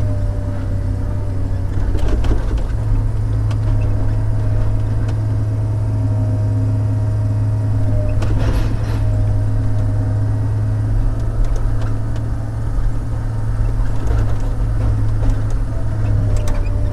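Diesel engine of a shovel-type log loader running steadily under work, a low drone with a faint wavering whine over it and a few brief knocks.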